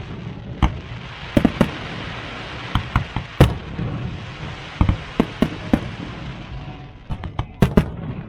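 Aerial fireworks going off: a rapid, irregular string of sharp bangs and pops over a dense hiss that dies away near the end.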